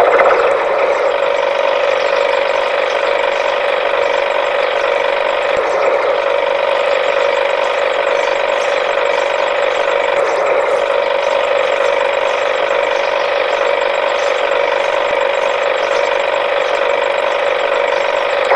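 Small battery motor of a toy vehicle running steadily with a whirring, slightly rattling drone that stays at one pitch.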